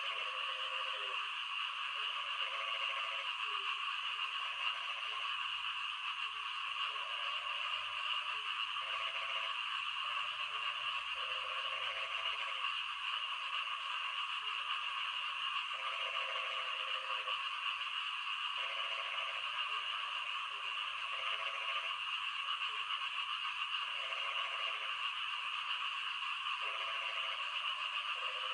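Frogs calling in repeated short bouts, one every second or two, over a steady high hiss of rain.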